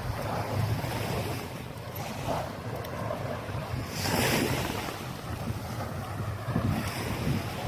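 Surf washing onto a beach, with wind buffeting the microphone and one louder wash about halfway through.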